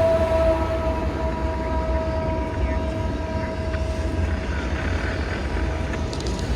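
Train horn chord sounding several steady notes together and fading away over the first few seconds, over the steady low rumble of the train.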